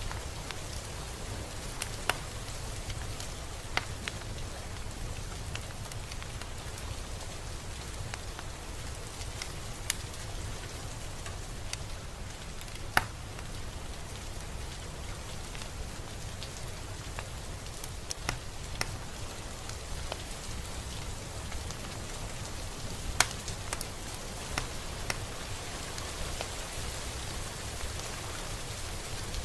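Steady rain falling, an even hiss with a low rumble beneath it and scattered sharp drips landing close by, the loudest about 13 and 23 seconds in.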